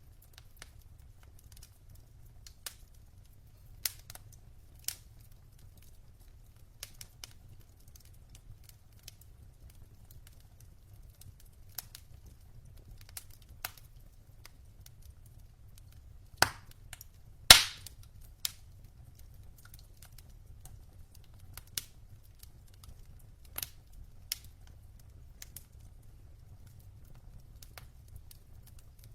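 Wood fire crackling in a fireplace: scattered sharp pops from the burning logs, the loudest two a little past halfway, over a faint low rumble.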